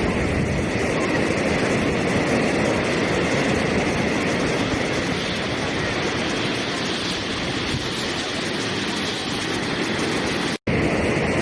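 Steady rushing water, an even noise with a low rumble, that drops out for a split second near the end.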